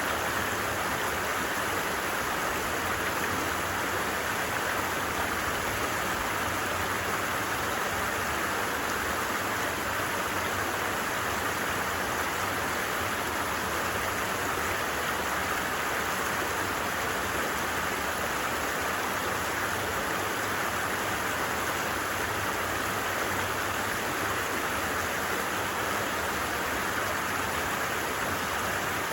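A stream running with a steady, unbroken rush of water.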